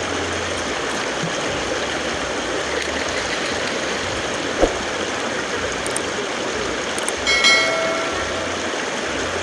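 Steady rush of river water flowing. A single knock sounds about four and a half seconds in, and a brief pitched tone with overtones comes about two-thirds of the way through.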